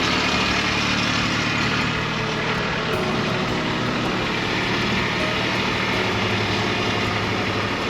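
Kubota B2301 compact tractor's three-cylinder diesel engine running steadily while it powers the BH70 backhoe.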